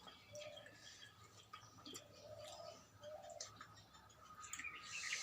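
Faint birds calling in the background: a few short, soft calls, with higher chirps near the end. Scattered faint clicks, likely from eating, are also heard.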